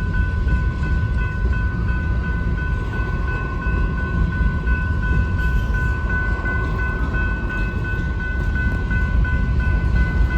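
Freight train cars rolling past with a steady low rumble, under a high ringing tone that pulses evenly about two to three times a second.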